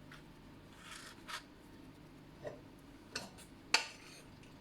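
Kitchen items being handled: a soft rub, then a few light clicks and one sharper click near the end.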